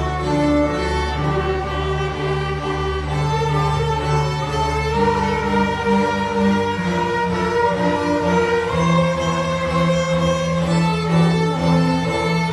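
A string ensemble of violins, cellos and double bass playing a concerto grosso, with long bowed notes over a sustained bass line.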